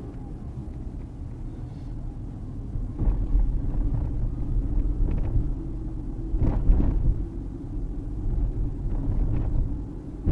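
Car driving, its engine and tyre noise a steady low rumble heard from inside the cabin, growing louder about three seconds in.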